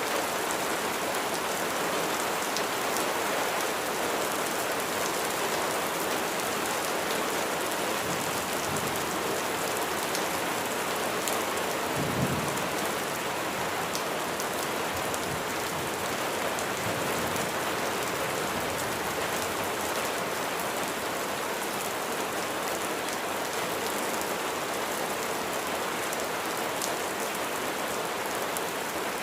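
Steady rain falling and pattering on surfaces, an even hiss with fine drop ticks. A brief low thump stands out about twelve seconds in.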